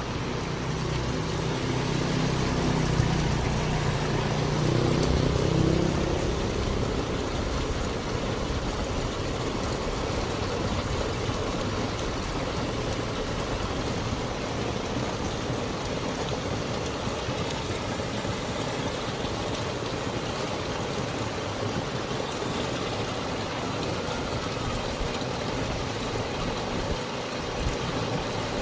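Steady rushing noise of floodwater, with a motor vehicle's engine running loudly in the first six seconds and rising in pitch before fading.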